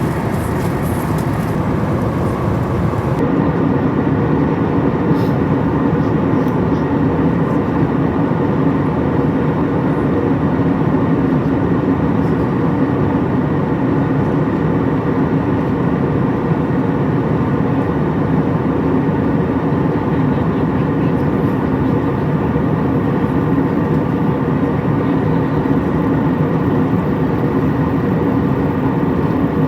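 Steady cabin noise inside an Airbus A321 airliner: a constant drone of engine and airflow with a faint low hum, unchanging throughout.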